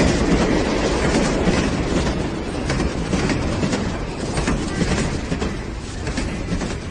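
Passenger train running along the track: a steady rumble of the coaches with repeated clicking of the wheels over the rail joints, easing slightly toward the end.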